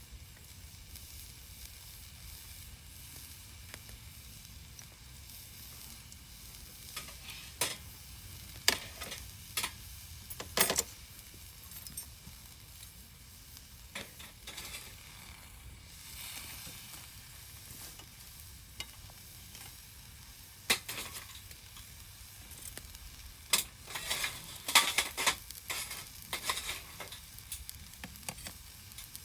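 Campfire crackling: a steady hiss with scattered sharp pops, one cluster about a third of the way in and a denser run near the end.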